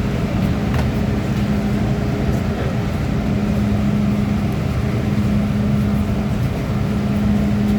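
Steady hum and rumble inside the car of an MTR M-Train electric multiple unit, with a constant low tone running through it.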